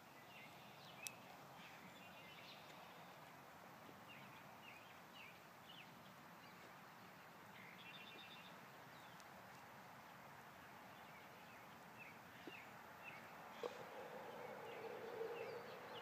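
Quiet woodland ambience with small birds chirping over and over in short, high notes. A single sharp click comes about a second in, and a brief low hum near the end.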